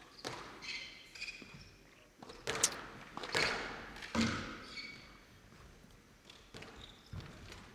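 Squash ball being struck by rackets and smacking off the court walls during a rally, a run of sharp hits a second or so apart, with short high squeaks of shoes on the court floor.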